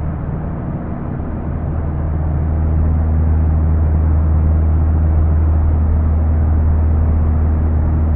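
Steady, loud low drone of a running engine, a little louder from about three seconds in.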